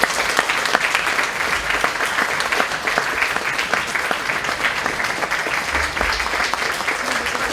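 Concert-hall audience applauding steadily, welcoming the piano soloist.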